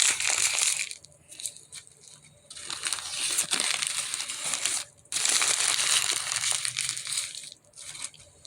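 Gift wrapping crinkling and rustling as it is handled, in three stretches of a couple of seconds each with short pauses between.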